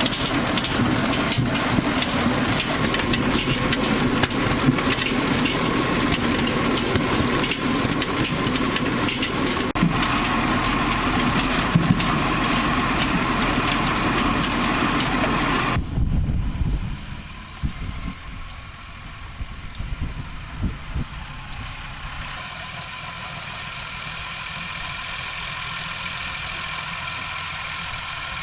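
Tractor engine running with a mounted EZOX SS-2 potato harvester clattering as it digs and conveys. About 16 seconds in, the sound drops suddenly to a quieter, steady engine hum with a few low thumps.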